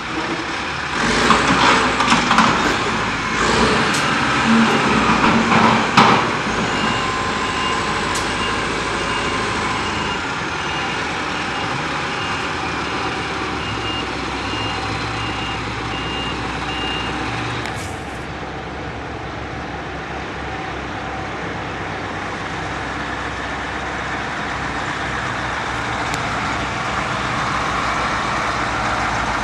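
Heavy diesel equipment, a payloader and dump truck, working, with loud crashes and cracks of branches in the first few seconds. A reversing alarm then beeps steadily for about ten seconds and stops, leaving the engines running.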